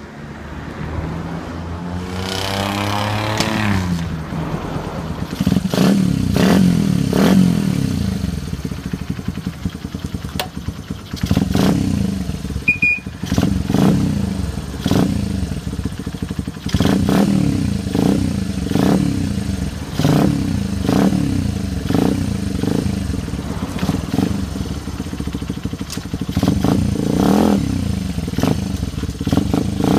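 Custom Honda Ape 50's single-cylinder four-stroke engine starting up, revving with a rising pitch in the first few seconds, then running with repeated throttle blips, each rev rising and falling back every couple of seconds.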